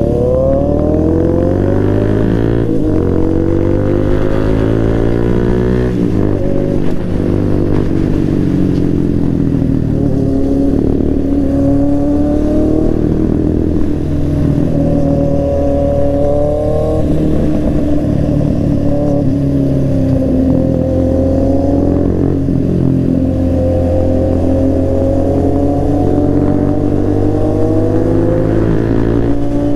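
Kawasaki Z800 inline-four with an SC Project exhaust, heard from the rider's seat while under way: the engine note climbs as the bike accelerates and drops back at each gear change, several times over.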